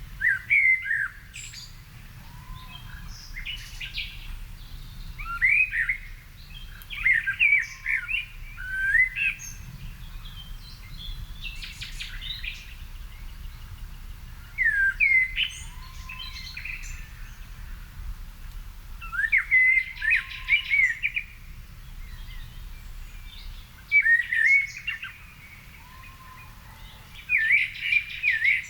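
Songbirds singing: short phrases of quick, sweeping chirps every few seconds, with fainter calls between them and a steady low rumble underneath.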